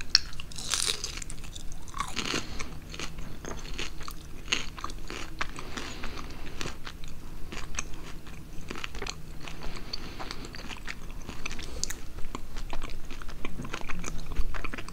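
Close-miked chewing of a bite of crispy pernil skin, with many sharp crunches. The crunching is densest in the first couple of seconds and goes on as softer crackly chewing.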